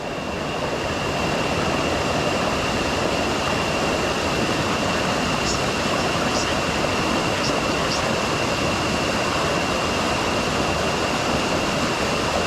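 Steady rushing of river water pouring over rocky cascades, with a thin, steady high tone running through it.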